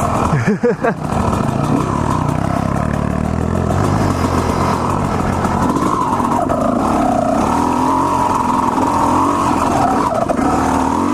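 Two-stroke Honda CR250R dirt bike engine running under throttle on a trail ride, its revs rising and falling as the rider works the throttle and gears.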